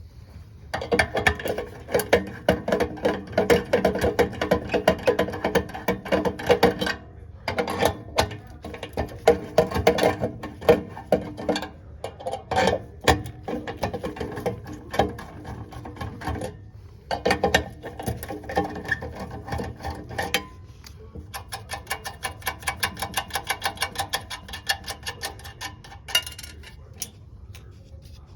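Rapid mechanical clicking in several long runs, broken by short pauses, like a hand tool being worked.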